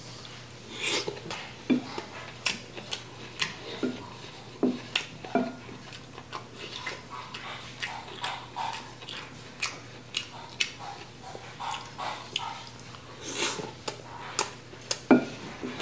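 Close-up eating sounds: a run of short, irregular chewing clicks and lip smacks on a mouthful of japchae noodles and rice, with a wooden spoon now and then scraping and knocking against a ceramic bowl.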